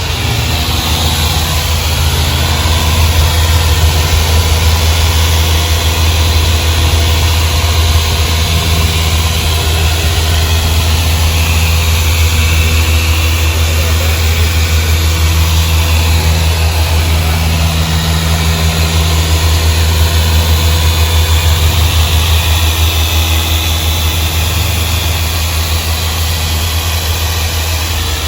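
An engine idling steadily with a deep, even low hum that holds at one pitch throughout.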